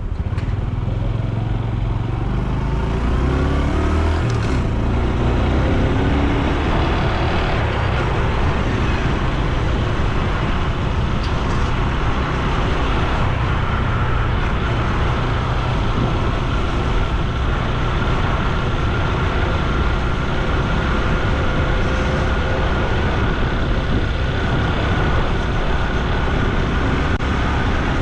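Honda Super Cub C125's 125 cc single-cylinder four-stroke engine and exhaust while riding. The pitch rises in the first few seconds, breaks off about four and a half seconds in, then climbs slowly as the bike gathers speed, under steady road noise.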